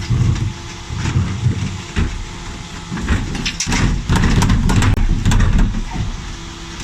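Dennis Elite 6 refuse truck's engine running, with clatter and knocks from the Terberg bin lift handling a wheelie bin. The engine swells louder for about a second and a half near the middle.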